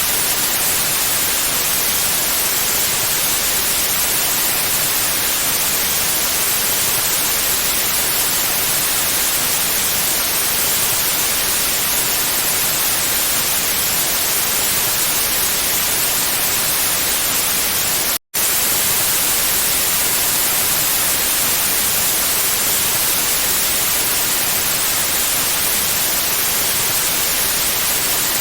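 Steady white noise, an even hiss strongest in the highs, broken once by a split-second dropout about 18 seconds in.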